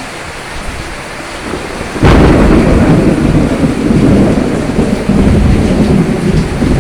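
Steady rain, then a sharp thunderclap about two seconds in that turns into loud rolling thunder, rumbling on over the rain.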